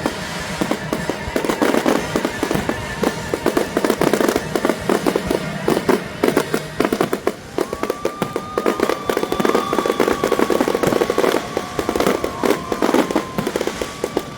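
Fireworks going off in rapid succession, a dense run of pops and bangs. Orchestral music plays underneath, with a few notes held from about halfway through.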